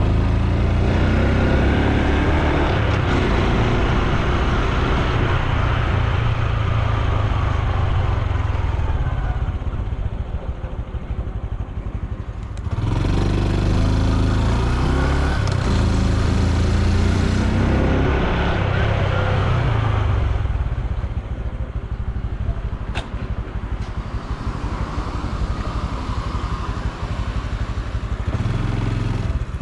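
Honda Super Cub C125's 125 cc single-cylinder four-stroke engine and exhaust under way. It pulls away with the pitch climbing and dropping through the gears, eases off around the middle, pulls up again, then runs lower and quieter toward the end.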